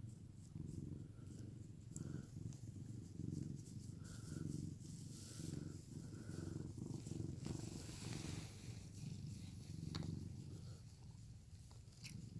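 Domestic cat purring, a low rumble that swells and eases with each breath, a sign that the cat is content while being petted.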